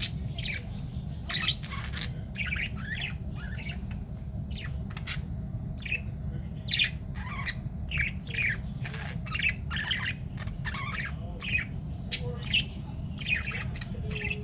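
A flock of budgerigars squawking and chattering in rapid short calls, over a steady low hum.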